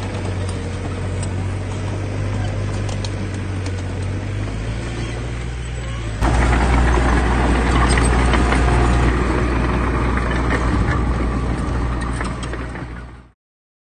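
Heavy earthmoving machine's diesel engine running steadily with a deep hum. It jumps abruptly louder about six seconds in, then fades out to silence just before the end.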